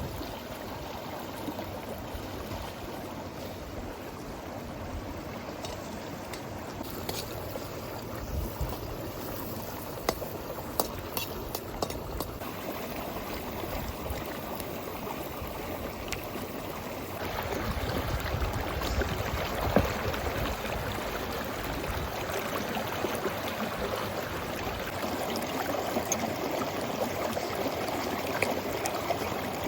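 Steady rush of running water, with scattered sharp clicks over it; the water grows louder about seventeen seconds in.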